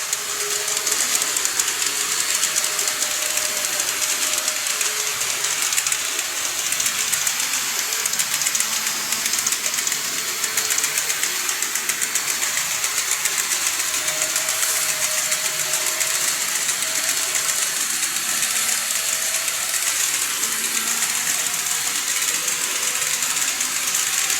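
KATO N-gauge model train running along the layout track: a steady, high, fine rattle of small metal wheels on the rails, with a faint motor whine that drifts up and down in pitch.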